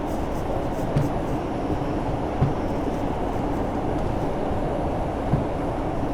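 R142 subway car running at speed through a tunnel, heard from inside the car: a steady low rumble, with a few sharp clicks from the wheels.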